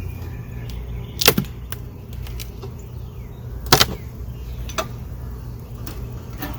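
A wooden beehive being opened for inspection: sharp cracks and knocks as its parts are pried apart and handled, the loudest two about a second in and near the middle. Under them runs a steady low hum.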